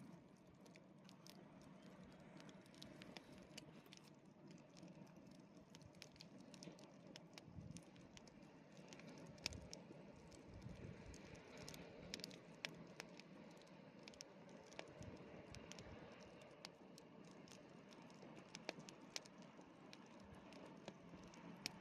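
Wood campfire crackling, with many small, sharp pops and snaps at irregular intervals over a steady low rush. Faint throughout.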